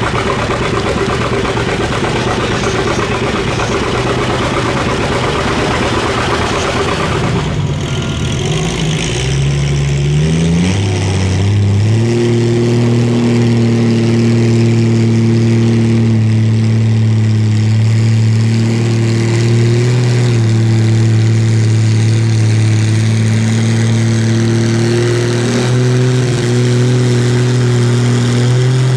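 Pulling-competition engine noise. A loud, rough engine sound fills the first several seconds. Then an engine revs up over a couple of seconds, from about nine seconds in, and holds a steady, high, even pitch for the rest.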